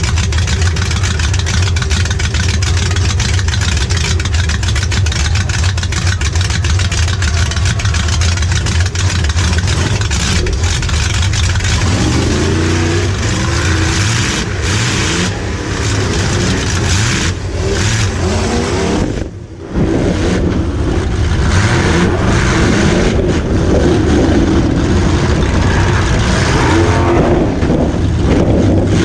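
V8 engine of a demolition derby car heard from inside the car, running steadily at first, then revving up and down from about twelve seconds in, with a brief dip just before twenty seconds. Short knocks and rattles come through now and then.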